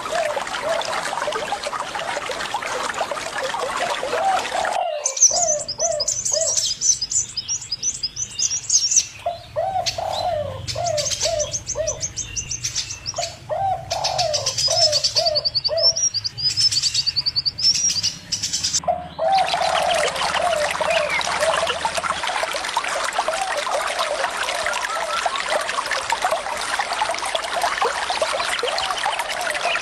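Birds calling over running water: short low calls repeated in groups, with high rapid chirping in the middle stretch. The water noise cuts out abruptly about five seconds in and comes back just as abruptly near two-thirds of the way through.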